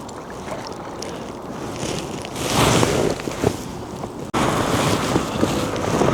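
Wind buffeting the microphone over the sound of river water, swelling briefly about two and a half seconds in; the sound breaks off abruptly about four seconds in and comes back louder.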